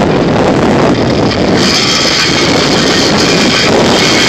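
Motor vehicle running loudly, with a dense rushing noise that grows brighter about a second and a half in.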